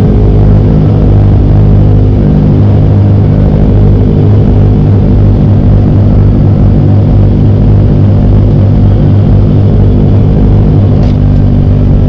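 Kawasaki ZX-25R's four-cylinder engine running steadily at an even pitch, without revving.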